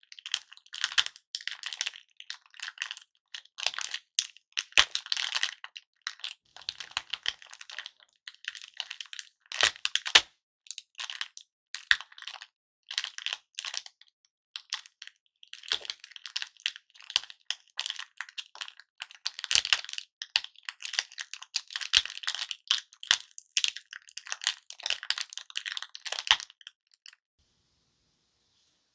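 Wrapped hard-candy lollipops and their broken pieces handled in cellophane, giving a dense run of small crackles and clicks. The sound stops near the end.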